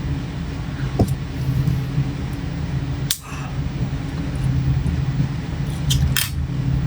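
A steady low hum with a few short clicks and smacks from eating, at about one, three and six seconds in.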